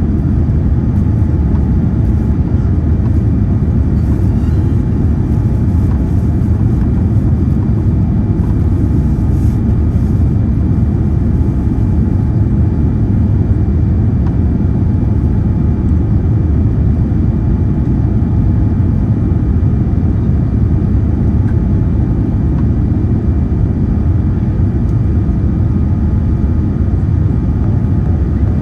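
Steady low rumble of a Boeing 787-9 airliner in flight, engine and airflow noise heard from inside the cabin, during the climb after takeoff.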